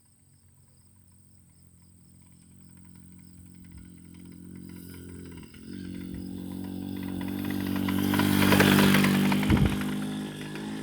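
A moped's small engine approaching from far off, growing steadily louder, passing close by about eight to nine seconds in, then moving away.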